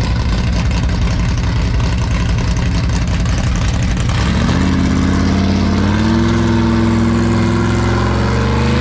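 Carbureted car engine idling, then revved up about four seconds in and held at a higher, steady speed.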